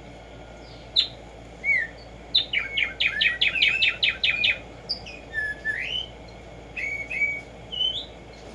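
Black-striped sparrow (tumba yegua) singing: a few separate whistled notes, then a fast run of about a dozen notes lasting about two seconds, then several rising slurred notes.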